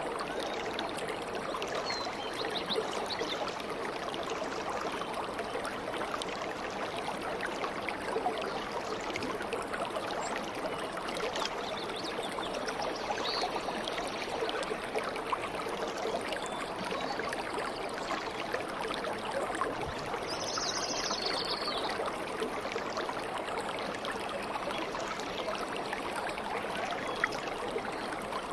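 Stream water babbling and trickling steadily. A short high bird call comes about two-thirds of the way in.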